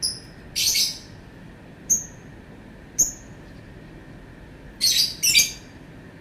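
Lovebird calling: three short, sharp, high chirps that drop in pitch, and three harsh screeching calls, the last two in quick succession near the end.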